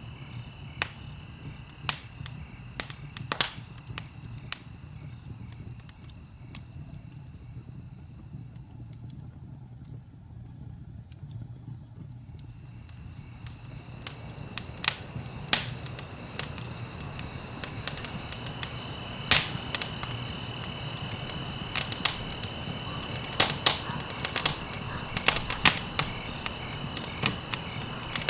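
Wood fire crackling in a fireplace: irregular sharp pops and snaps over a low steady rumble, the pops growing denser and louder in the second half. A steady high-pitched trill runs behind it, dropping out for a few seconds in the middle.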